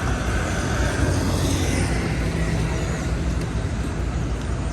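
City street traffic: a steady rumble of engines and tyres, swelling briefly as a vehicle passes about one to two seconds in.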